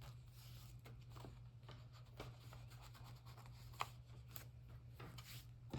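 Faint rustling and scattered light clicks of paper and a washi tape roll being handled, with a sharper click about four seconds in, over a low steady hum.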